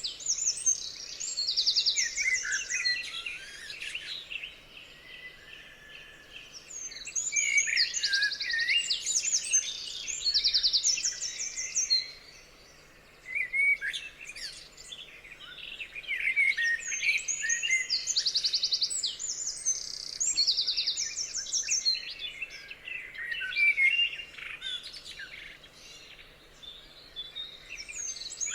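Several songbirds singing together: a busy mix of chirps, whistled notes and rapid trills, coming in bursts with a few short lulls.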